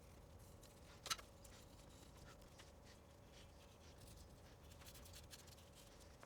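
Near silence with faint scattered clicks and taps of handling, one sharper click about a second in, over a faint steady hum.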